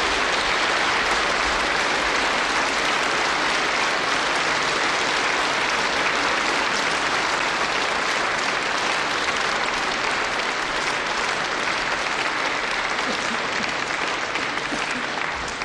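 Concert audience applauding steadily: a dense, even clapping.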